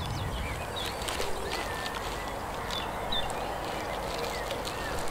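Several songbirds singing, a busy mix of short chirps and whistled phrases over a steady outdoor background.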